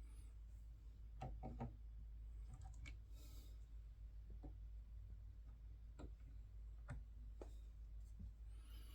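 Faint, scattered clicks and taps of small plastic scale-model parts being handled and fitted together, with a short cluster about a second in and a brief rustle a little later, over a low steady hum.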